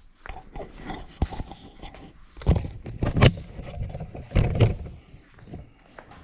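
Irregular metal knocks, clunks and scrapes of tools and parts being handled during shop work, with a few sharper knocks standing out.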